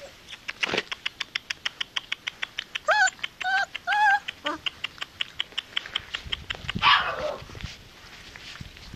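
Turkmen alabay puppies whimpering, with three short high whines about three to four seconds in. Under them runs a fast, even ticking, about seven ticks a second, and a brief rustling burst comes near the end.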